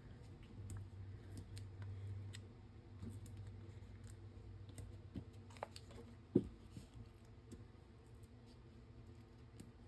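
Faint handling of paper and Stampin' Dimensionals foam adhesive squares: small scratches and clicks, with one sharper tap about six seconds in.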